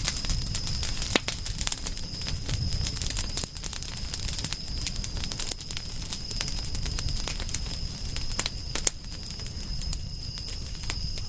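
Campfire crackling, with irregular sharp pops and snaps over a low rumble of burning. A steady thin high-pitched tone runs underneath.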